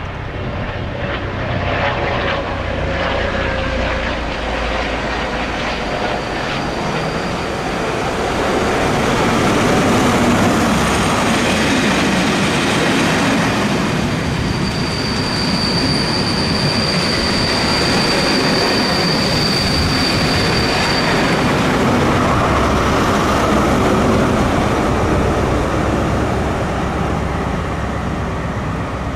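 A diesel-hauled freight train passing: a low engine note early on, then wagons rolling by in a steady heavy rumble. A thin, high, steady wheel squeal lasts about six seconds midway.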